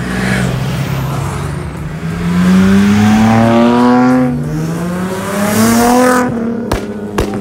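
Car engine accelerating hard, its pitch climbing, dropping about four seconds in as at a gear change, then climbing again. Two sharp cracks come near the end.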